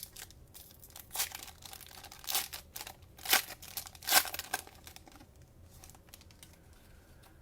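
Cellophane wrapper of a Panini Mosaic cello pack being torn open and crinkled, a run of sharp, irregular crackles for a few seconds, loudest about three and four seconds in, then fading to faint handling.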